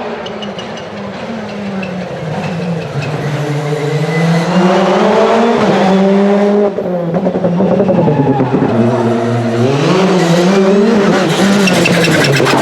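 Rally car engine revving hard through the gears as it approaches and passes close by. It gets much louder about four seconds in, with the pitch climbing and dropping at each shift and a brief lift near the middle.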